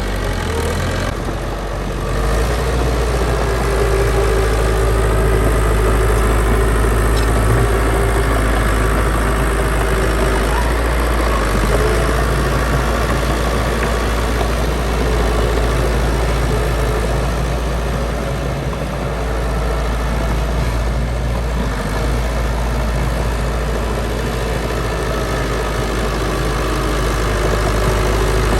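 Heavy diesel engine of earth-moving machinery running steadily, a little louder after about two seconds.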